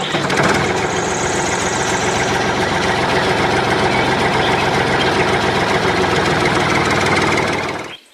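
A small homemade motor-driven machine running steadily with a rapid, even chatter. It cuts off abruptly near the end.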